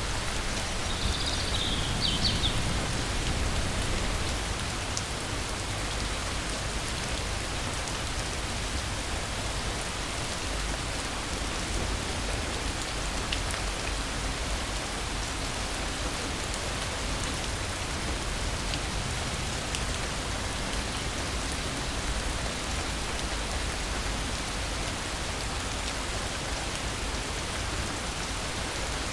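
Steady rain falling, an even hiss, with a brief high chirp about a second in.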